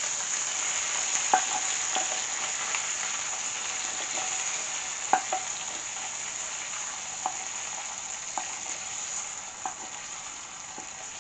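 Food sizzling in a frying pan, a steady hiss that fades slightly, with a utensil knocking sharply against the pan now and then as it is stirred.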